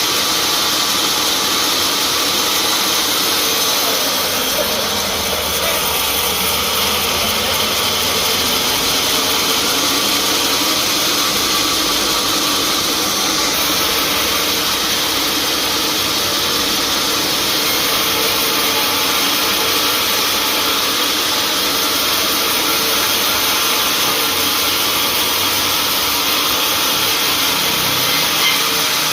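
Sawmill machinery running steadily, a continuous loud mechanical noise with no clear breaks.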